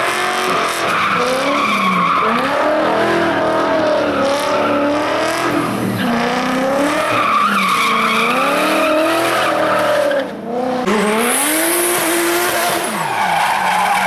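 Race-prepared rally car engine revved hard, its pitch repeatedly climbing and dropping back through the gears, with tyres squealing. The sound drops out briefly about ten seconds in, then a high hiss comes in and the revving carries on.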